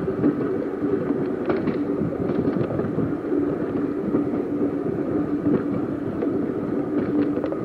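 Seaton Tramway tram running along the track: a steady motor hum over a continuous rumble of wheels on rail, with a few short sharp clicks.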